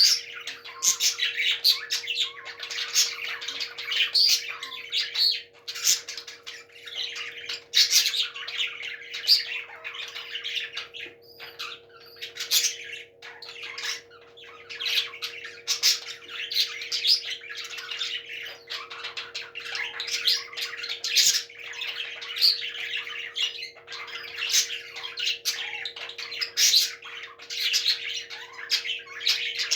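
Parrots squawking and chattering continuously in quick, overlapping calls, with sharp clicks among them, over a steady low hum.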